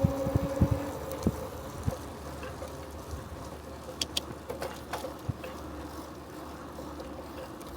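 A bicycle rolling along: a steady hum with scattered clicks and rattles from the bike.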